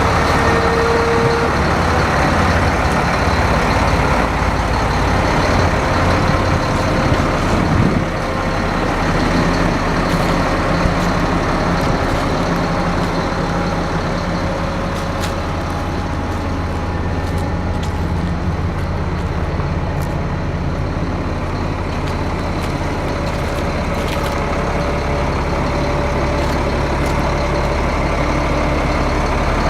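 2005 Freightliner M2 grain truck's diesel engine running steadily, easing slightly about eight seconds in.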